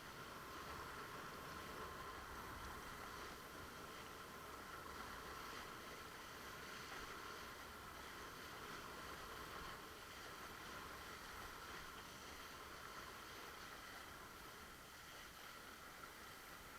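Faint, steady rushing noise of water and wind while windsurfing, with no distinct events.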